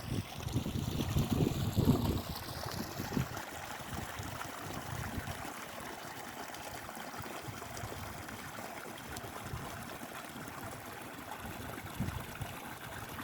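Water trickling and flowing steadily in a rice paddy. Low rumbles of wind on the microphone come in the first few seconds.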